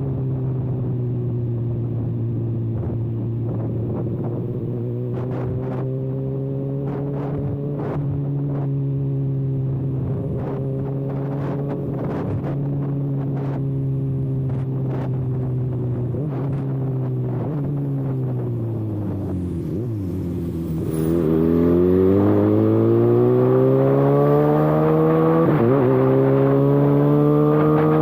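Kawasaki ZX-6R inline-four motorcycle engine running loud through an exhaust with the silencer canister removed, holding steady revs, then dropping in pitch about two-thirds of the way in before accelerating, the note rising steadily and growing louder. Short sharp clicks come over the steady stretch.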